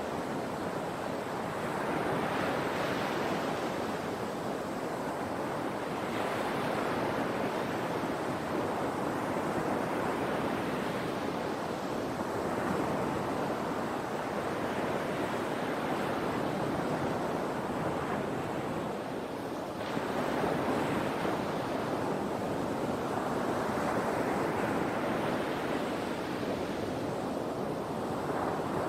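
Sea waves breaking and washing in a continuous surf, swelling and easing every four seconds or so.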